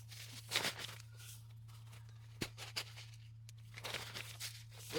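Rustling and crinkling of camping gear and bags being handled and packed, with a few sharp clicks and knocks, over a steady low hum.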